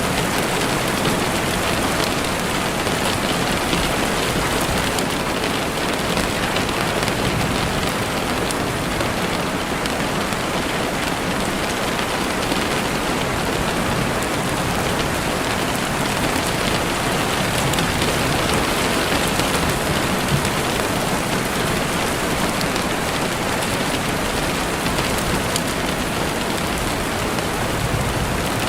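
Heavy rain falling steadily on a window, a dense even hiss of drops with faint fine ticks through it.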